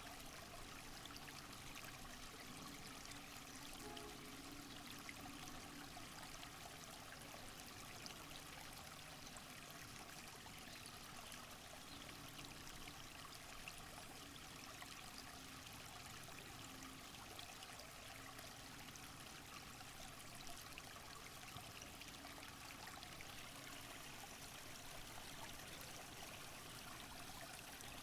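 Faint, steady rush of running water, with no distinct events.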